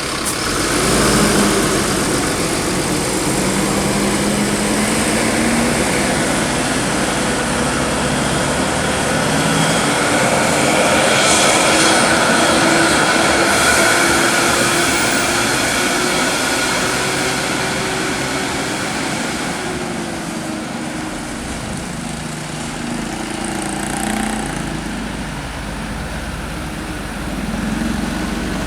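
Heavy diesel vehicle's engine passing close by under load, its note rising through the first half, loudest about twelve seconds in, then falling away.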